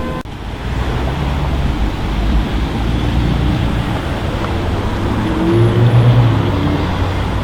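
A car engine running amid street traffic noise. It rises in pitch and gets loudest about six seconds in.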